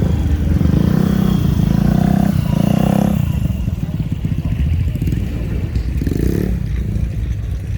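A vehicle engine running, revved up briefly twice, about two seconds in and again near six seconds.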